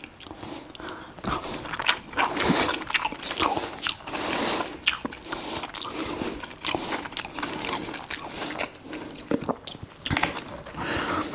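Close-miked eating: a person chewing a mouthful of rice and burger patty, with many short sharp mouth clicks and the clink of a knife and fork on the plate.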